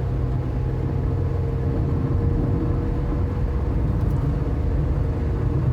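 Volkswagen Polo's 1.2-litre three-cylinder MPI petrol engine running steadily, a low, even sound with no revving.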